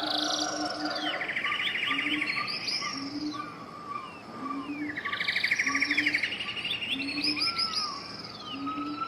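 Several birds singing at once: fast trills and slurred whistles overlap, over a low short note repeated about once a second.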